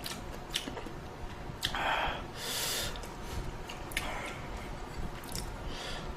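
Eating sounds from a person having ramen: light clicks of utensils, and two short breathy noises in quick succession about two seconds in, a slurp or sniff.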